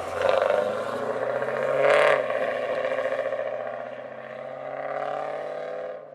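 A 2000 Camaro Z28's LS1 V8 running through a newly fitted Flowmaster exhaust. The engine note rises to a peak about two seconds in, eases back and holds steady, then cuts off sharply near the end.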